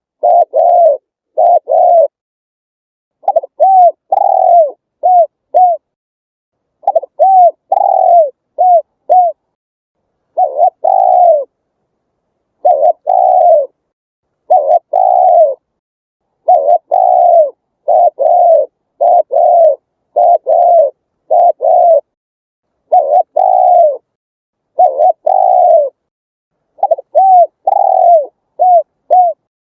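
Spotted dove cooing: phrase after phrase of short, low coos, each note arching up and falling back, with about two to five coos per phrase and clean silent gaps between phrases.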